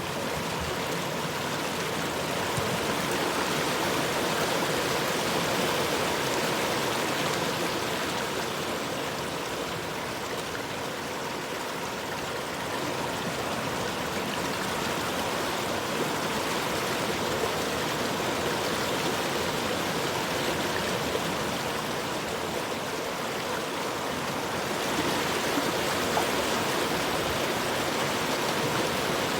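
Flowing river water running steadily, a continuous rushing with slow gentle swells in loudness.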